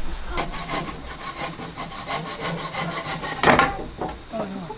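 Wood being sawn by hand with quick, even strokes, about six a second, which stop about three and a half seconds in after a louder final stroke.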